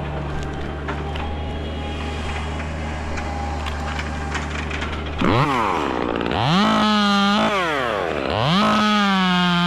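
A steady low engine drone, then a chainsaw starts up about five seconds in with a quick blip. It is then revved to full throttle twice, each high whine held for about a second before dropping back.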